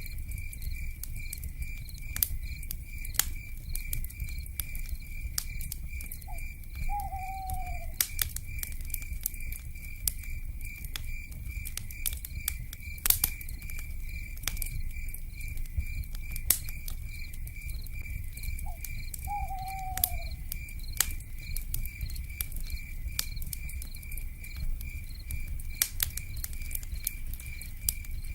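Wood fire crackling with frequent sharp pops over a low rumble, while insects chirp in a steady, evenly pulsing trill. Twice, about twelve seconds apart, an owl gives a short note followed by a falling hoot.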